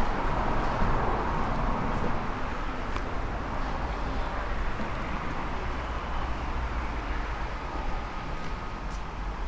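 Steady motor-vehicle noise: a low engine hum with passing traffic.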